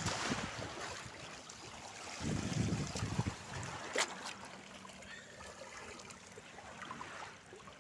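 Sea water splashing and trickling, with a low gust of wind buffeting the microphone about two seconds in and a single sharp click about four seconds in.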